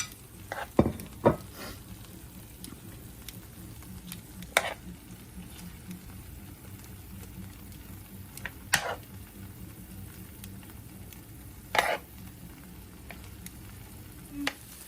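Pepper steak and vegetables sizzling in a soy-and-cornstarch sauce on an electric grill while being stirred, with a utensil knocking on the grill every few seconds.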